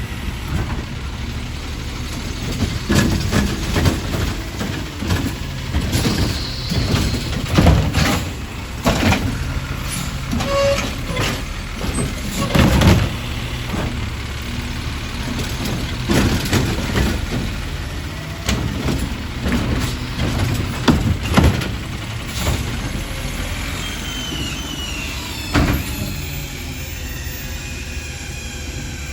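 Garbage truck engine running steadily, with repeated sudden clanks and knocks over it and a few short high squeals near the end.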